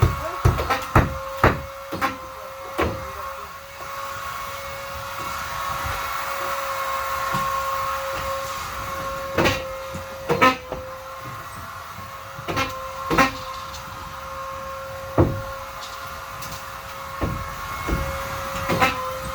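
A vacuum cleaner motor runs with a steady whine, while a series of sharp knocks and bumps comes at irregular intervals, several close together near the start and more spread out later.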